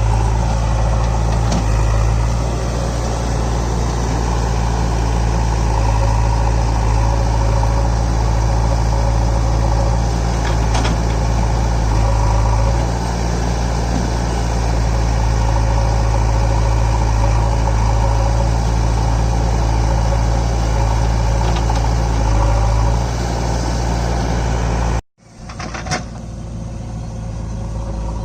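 Heavy diesel engine running steadily, with a few faint knocks over the top. It cuts out abruptly for a moment near the end, then comes back quieter.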